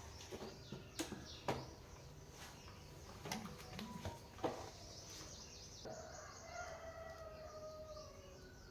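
A rooster crowing once, a single long call of about two and a half seconds starting about six seconds in. A few sharp clicks come before it.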